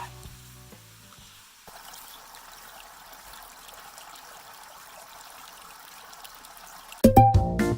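A faint, steady rush like running water, with no rhythm or pitch. About seven seconds in, loud plucked background music starts abruptly.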